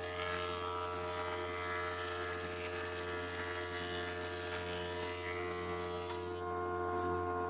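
A small electric motor running steadily with a constant buzzing hum. The high hiss drops away near the end while the hum carries on.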